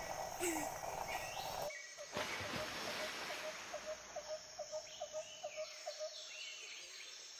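A bird calling in a fast series of short, rising notes, about four a second, that stops a little before the end, over faint outdoor background noise.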